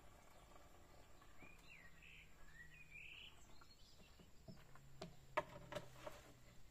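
Near silence with a faint bird calling: a few short warbling chirps between about one and a half and three and a half seconds in, then a few faint clicks.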